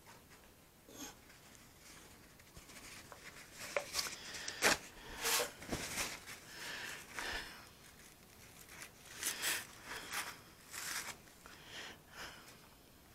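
Irregular handling noises at a workbench: rustling and scraping with a few sharp taps, starting about a second in and loudest around four to five seconds in.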